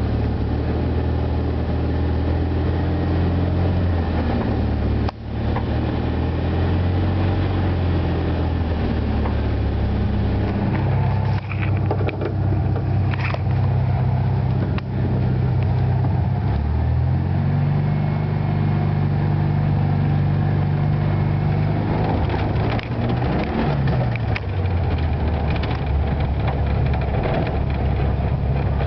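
1973 Volkswagen Super Beetle's rebuilt 1600cc air-cooled flat-four engine running as the car is driven, engine speed stepping up and down. There is a brief dip about five seconds in, a rise to higher revs in the middle, and a falling glide in pitch late on.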